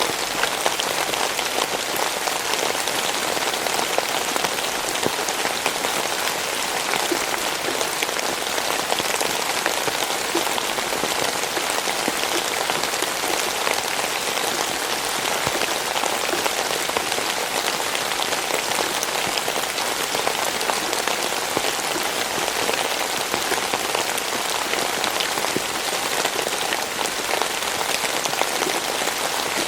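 Steady rainfall: dense, even patter of raindrops on a surface, with many small drop ticks.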